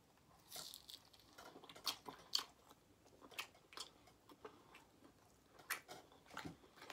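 Quiet close-up chewing and biting of barbecue rib meat, with scattered small clicks as the meat is pulled off the bone and chewed.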